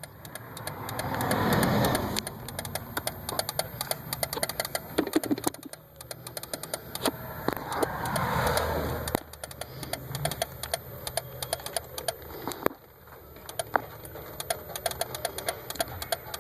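2001 Daihatsu Terios flasher system making a fast, irregular clicking, about four clicks a second, a clicking the owner cannot explain and takes for a fault. A steady engine hum sits underneath, with two louder rushing swells, about a second in and again around eight seconds.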